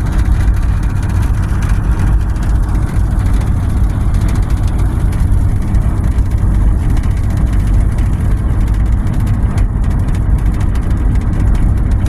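Steady road and engine rumble inside a moving car's cabin, with the hiss of wet tyres and rain during hard rain.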